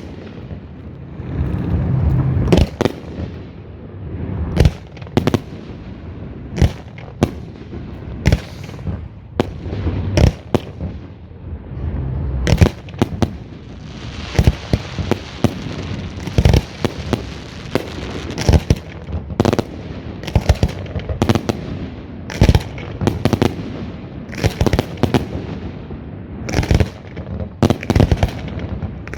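Aerial fireworks shells bursting in quick, irregular succession, loud sharp bangs several a second at times, with a dense crackling spell near the middle.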